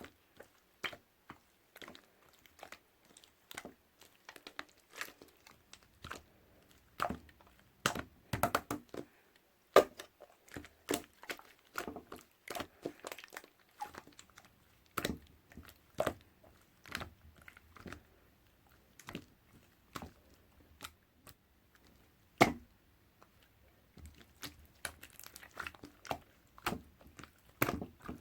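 Irregular sharp clicks and crackles, coming in uneven clusters with short pauses between them.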